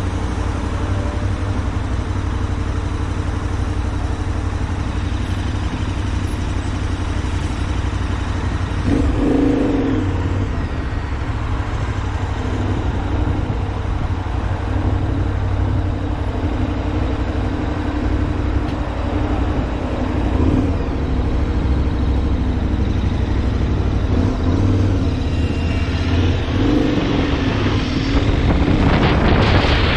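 Road vehicle engine running steadily while driving, with wind noise on the microphone. The engine swells about nine seconds in, and a rush of wind grows near the end.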